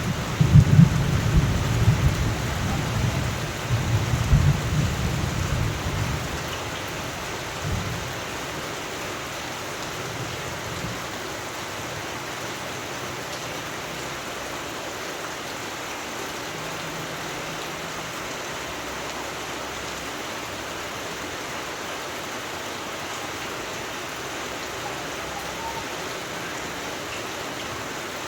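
Steady rain falling, with rolling thunder for the first several seconds that dies away, and one short low rumble about eight seconds in.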